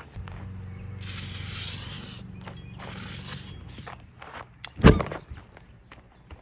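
Aerosol brake cleaner hissing in two sprays onto a go-kart tire's bead over a steady low hum, then a single loud thump a little before the end.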